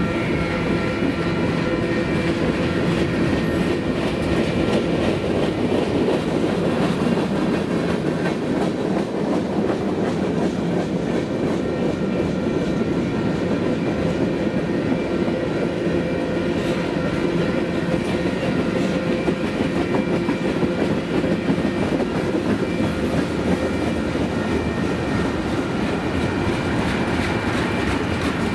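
Freight train cars, mostly tank cars, rolling steadily past: continuous rumble and clickety-clack of steel wheels on rail, with a few faint steady whining tones on top.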